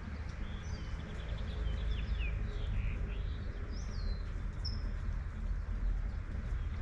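Several birds chirping in short, quick calls over light steady rain and a low, constant rumble of city traffic.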